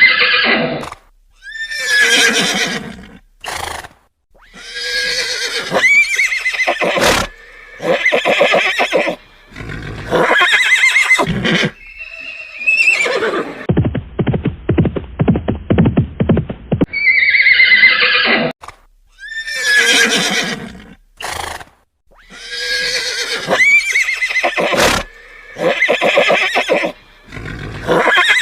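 Horse neighing and whinnying again and again, each call shrill with a sliding, wavering pitch, one to two seconds long, with short pauses between. About halfway through there is a longer stretch of low, fast-pulsing sound.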